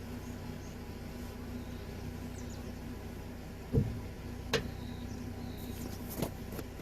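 A vehicle engine idling steadily, with a few sharp knocks; the loudest comes a little before the middle.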